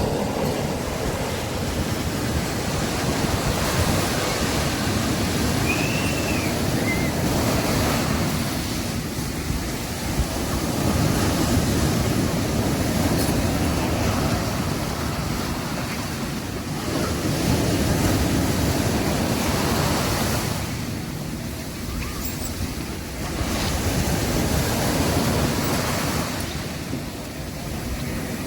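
Sea waves breaking on a beach, a continuous wash of surf that swells and recedes every few seconds.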